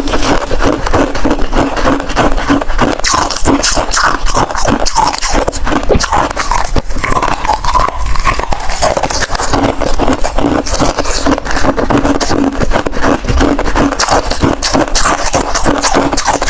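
Close-miked crunching and chewing of ice, a dense run of rapid crunches that goes on without a break.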